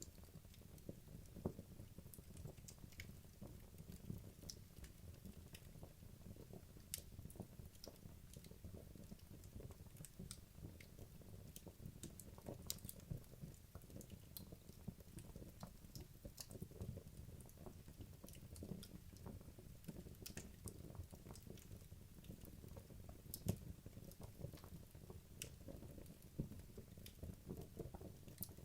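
Wood fire in a fireplace crackling, with many small irregular pops and snaps over a low rumble of flames. The logs are well into burning down.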